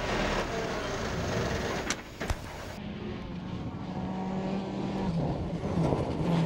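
World Rally Car engine running on a stage. The first part is rough and noisy, with two sharp clicks about two seconds in. It then changes abruptly to a steady, held engine note that dips briefly about five seconds in.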